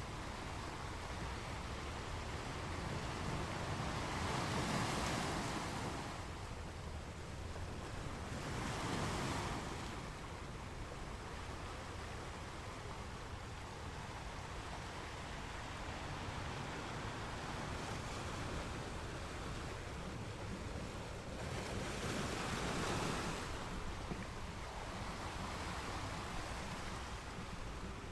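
Sea waves breaking on the shore, a steady wash of surf that swells louder as three waves break. A low rumble runs underneath, with some wind on the microphone.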